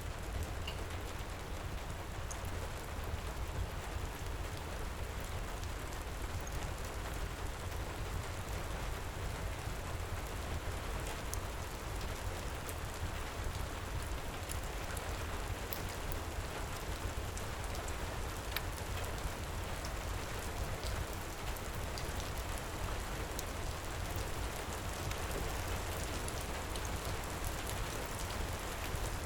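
Heavy rain pouring steadily, with a deep low rumble underneath and scattered faint sharp clicks.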